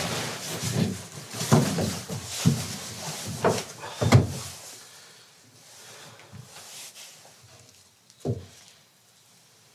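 Knocks and clatter of things being handled, several in quick succession over the first four seconds, then quieter, with one more sharp knock about eight seconds in.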